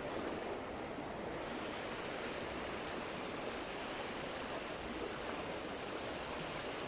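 Steady, even rushing noise with no speech and no separate events.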